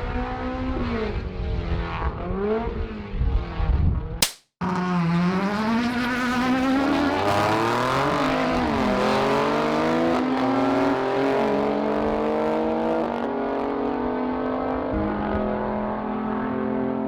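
Tuned car engine revving on the start line, then, after a cut, accelerating hard down a drag strip; its pitch climbs and falls back at each of about five gear changes.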